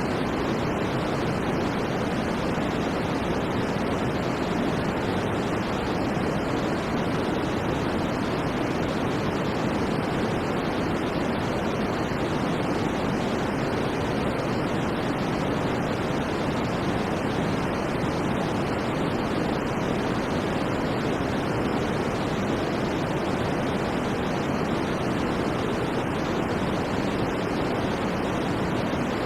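Steady synthetic white noise: an even, unbroken hiss that never changes in level, weighted toward the lower, darker end and soft in the highest treble.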